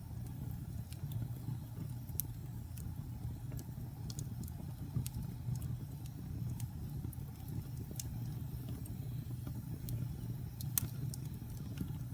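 Wood fire burning in a fireplace: a steady low rumble of the flames with scattered sharp crackles and pops, a few louder snaps among them.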